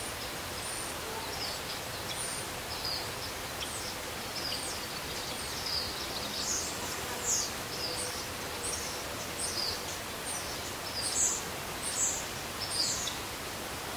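Small birds chirping in short, high, down-slurred notes over a steady outdoor hiss. The chirps come more often and louder over the last few seconds.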